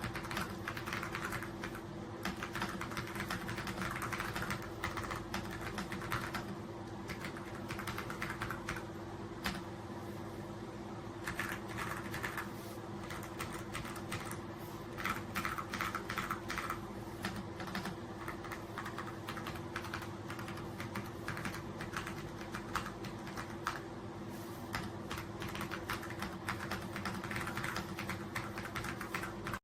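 Continuous fast typing on an AULA F99 mechanical keyboard: a dense, irregular run of key clicks and bottom-outs.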